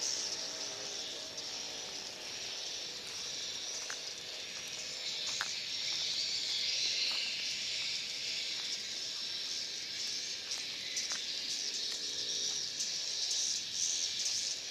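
Swiftlets twittering in a dense, continuous high-pitched chatter, with a few sharp clicks scattered through it.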